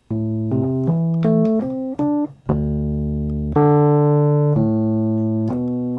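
Fender Rhodes electric piano played through an Electro-Harmonix Bass Mono Synth pedal, turned into a single-note synth tone. It starts with a quick run of short notes stepping up and down, then moves to a few longer held notes. The notes sustain at an even level instead of decaying like a piano, and stop abruptly near the end.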